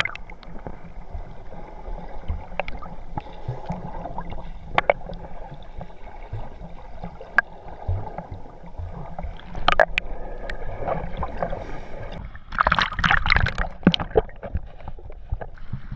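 Water gurgling and lapping around a boat over a steady low rumble, with scattered light knocks and a louder rush of noise about thirteen seconds in.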